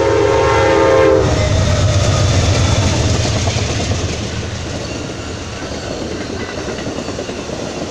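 Amtrak Coast Starlight passenger train led by GE Genesis diesel locomotives: a loud horn chord for the grade crossing cuts off about a second in. The locomotives and double-deck cars then rumble past, the sound slowly fading.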